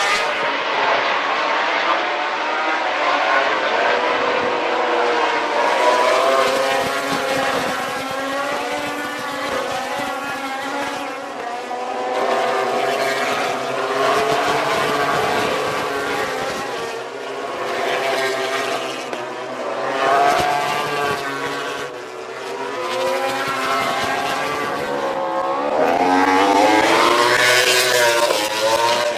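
2011 MotoGP 800cc four-stroke racing motorcycles passing trackside, several at a time, their engine notes rising and falling through gear changes and throttle. The loudest pass comes near the end.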